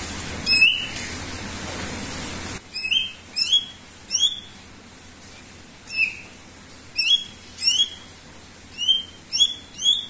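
Green leafbird (cucak ijo) calling: about ten short, sharp rising whistled notes, some single and some in quick pairs. A steady hiss under the first couple of seconds cuts off abruptly.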